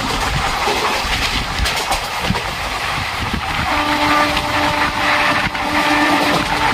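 Two trains passing each other at speed on adjacent tracks: a steady rush of wind and rail noise with clattering wheels. About four seconds in, as the goods train's diesel locomotives go by, a locomotive horn sounds in two long, steady-pitched blasts.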